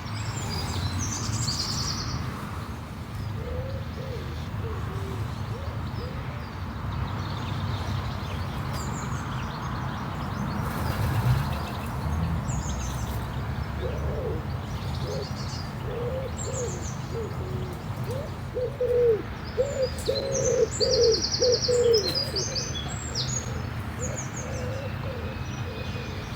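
Birds calling at a lake: a run of short, low cooing or hooting notes, coming thickest in the middle and later part, with a few high chirps from small birds.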